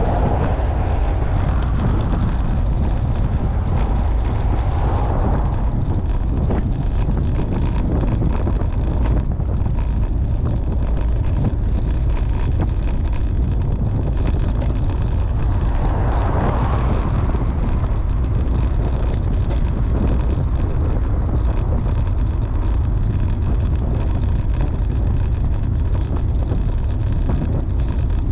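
Wind rushing over the microphone of a camera riding on a moving bicycle: a steady low rumble, with a few brief swells.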